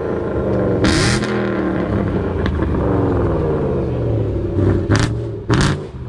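Car engine revving, its pitch sinking slowly over several seconds, with three short sharp bursts of noise, one about a second in and two close together near the end.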